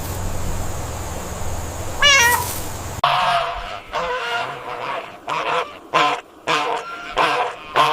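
Steady background noise with one short warbling call about two seconds in. Then, after an abrupt change about a second later, a series of about six short pitched animal calls repeated in quick succession.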